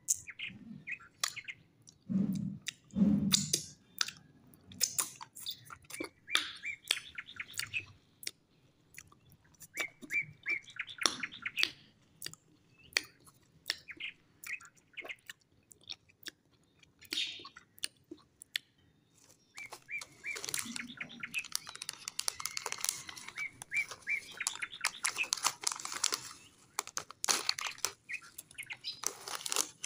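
Small birds chirping in quick repeated bursts, busiest in the second half, with clicks and rustles from plastic candy wrappers being handled and two soft thumps a few seconds in. Near the end a foil snack bag crinkles.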